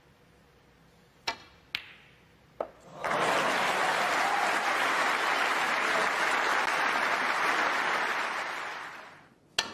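Three sharp clicks of snooker balls being struck, followed by audience applause that starts about three seconds in and dies away near the end, with another click just before the end.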